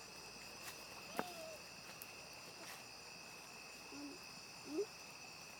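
A steady chorus of night insects, shrill and continuous at several fixed pitches, with a few faint clicks and brief short sounds over it.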